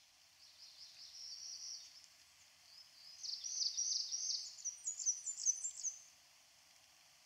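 A songbird singing: a short run of high chirping notes, then a louder, faster string of rising and falling high notes that ends about six seconds in.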